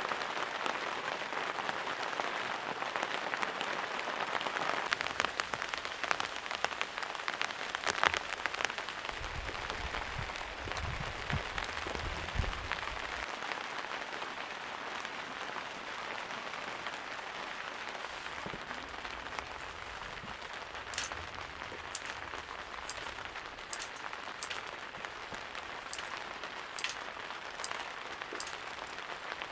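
Steady rain falling, with many sharp drop hits close by. In the second half, single drips land about once a second. A low rumble comes in for a few seconds about a third of the way in.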